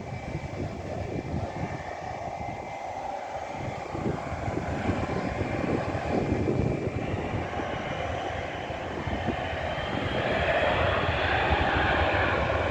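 Jet plane taking off, its engines at takeoff power: a steady rush of engine noise that grows louder throughout.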